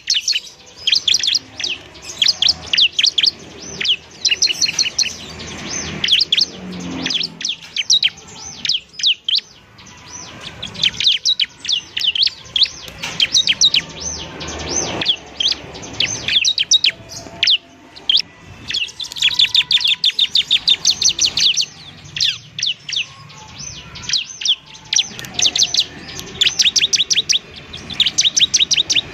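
Bar-winged prinia (ciblek) singing energetically: rapid runs of sharp, high chirping notes in bursts of several seconds, with brief pauses between them.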